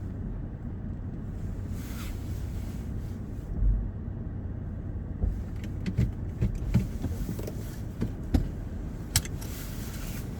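Steady low rumble of a car, with several sharp clicks and knocks in the second half.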